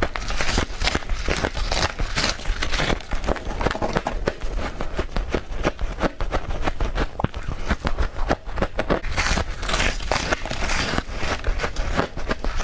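Frost being bitten in quick succession: a steady run of dense, crackly crunches.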